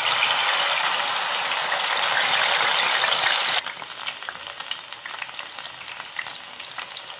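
Masala-coated spiral potato on a skewer sizzling in hot oil in a shallow pan: a loud, even hiss that drops suddenly to a quieter crackling with small pops about three and a half seconds in.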